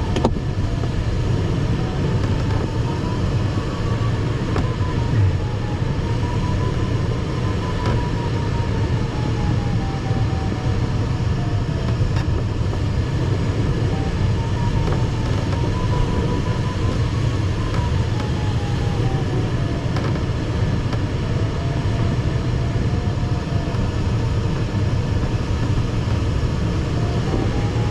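Steady airflow noise in the cockpit of an ASW 15 sailplane circling in a thermal, with the variometer's audio tone slowly wandering up and down in pitch as the lift changes.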